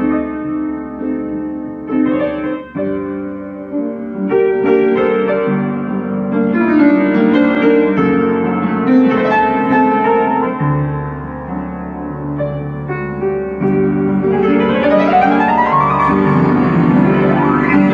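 Background piano music, with a quick rising run of notes about three-quarters of the way through.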